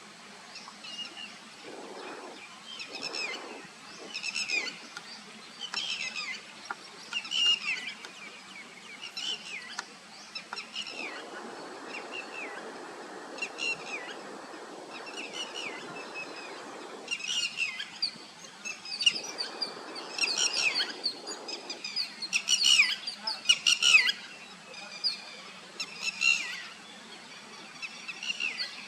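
Bird calls outdoors: short, sharp calls repeated every second or two, coming thicker toward the end. A lower rushing noise swells in and fades several times beneath them.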